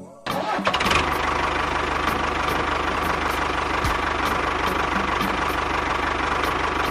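A motor vehicle engine running steadily with an even low hum, starting just after a brief cut.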